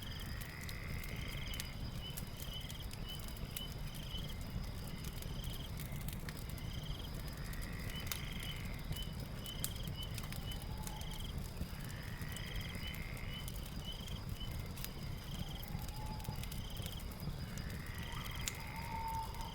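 Night ambience of a fire crackling with a low rumble, over night creatures calling: a steady high drone, a fast run of chirps repeating about twice a second, and a longer call every four seconds or so.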